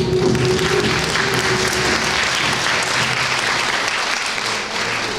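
Audience applauding at the end of a dance number, with the music's last held note fading out in the first two seconds. The applause thins out toward the end.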